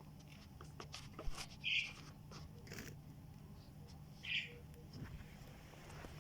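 Budgies calling: two short, harsh calls about two and a half seconds apart, with scattered light clicks and taps between them.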